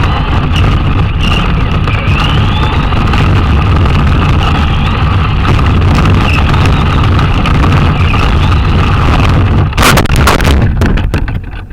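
Traxxas Slash RC car driving: a steady loud rumble of the drivetrain and tyres with a whine from the motor and gears. About ten seconds in there is a sudden loud noisy burst, after which the sound starts to fall away.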